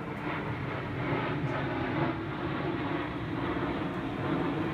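A steady engine drone with a low hum, holding level throughout.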